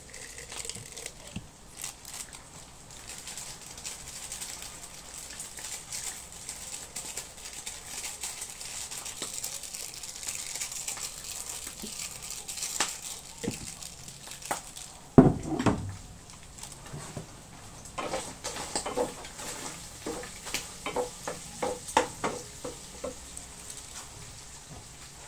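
Pork frying in a covered stainless steel pan on a gas burner, with a steady sizzle. About fifteen seconds in there is one loud knock, followed by a run of clinks and clatter as the lid and a spatula are worked against the pan.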